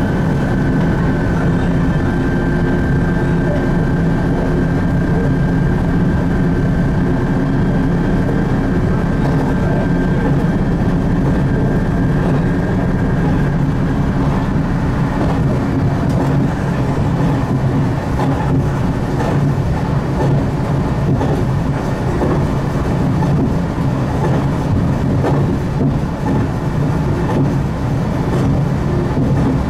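Ise Railway diesel railcar running along the line: a steady engine and running drone with a thin high whine that stops about halfway, after which clicks from the wheels on the track come through.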